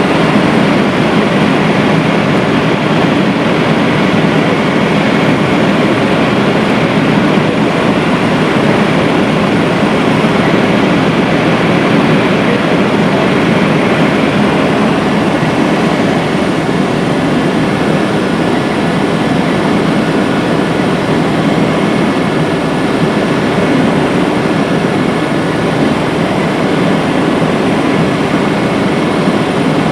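Helicopter in flight heard from inside the cabin: a loud, steady din of engine and rotor, with a faint steady whine over it.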